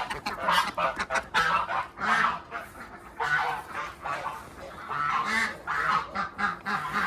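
Domestic geese honking and ducks quacking together, many short overlapping calls from a flock on the move.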